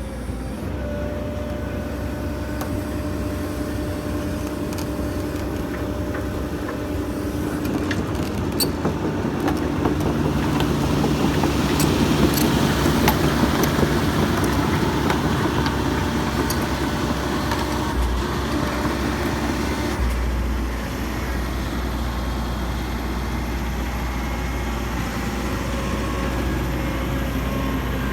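Heavy diesel machinery engine running steadily. It grows louder and works harder around the middle, with a few sharp knocks, then eases back after about twenty seconds.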